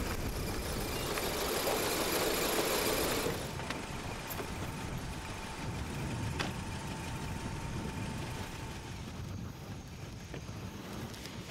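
Car engine idling, with a steady hiss that drops away suddenly after about three seconds and a single sharp click, like a car door, about six seconds in.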